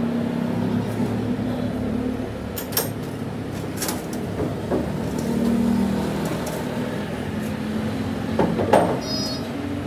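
Workshop machinery running steadily with a low hum, with a few sharp metal knocks and clinks about three and four seconds in and again near the end.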